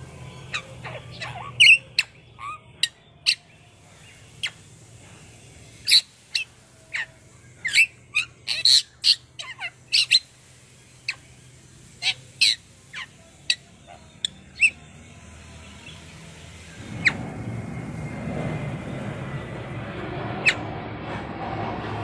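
Bali myna giving short, sharp chirps and squawks, many singly and some in quick runs of two to four. From about two-thirds of the way in, a louder steady rushing noise takes over and the calls mostly stop.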